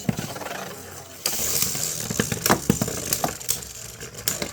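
Plastic Beyblade spinning tops whirring in a stadium, with a string of sharp clacks as they strike each other and the stadium wall in a battle.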